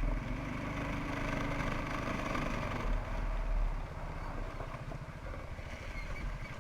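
1992 Suzuki QuadRunner 300 ATV's single-cylinder engine running as it is ridden, louder under throttle for the first few seconds and easing off about four seconds in.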